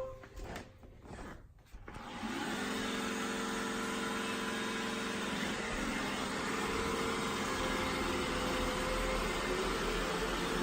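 A few faint clicks, then a Roomba i7+ robot vacuum's motor spins up about two seconds in and runs steadily with a low hum as the robot drives back toward its dock.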